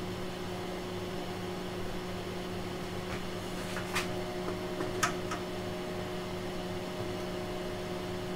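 Steady electrical hum with fan-like noise from running bench equipment, holding a few fixed low tones. A few faint ticks come about three to five seconds in.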